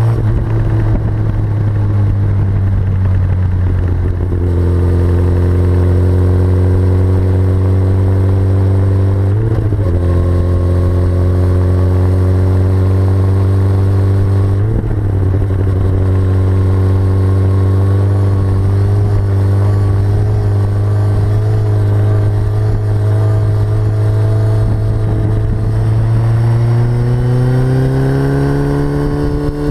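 2004 Yamaha R6's 600 cc inline-four running through a full Akrapovic Evolution exhaust at a steady pitch that creeps slowly upward, with two brief wavers in the note, then rises more quickly near the end as the engine speeds up.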